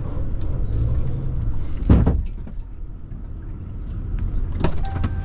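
Steady low drone of a truck driving, heard from the cab, with a loud thump about two seconds in and a lighter knock near the end: something struck while driving, which the driver first takes for a log from the load.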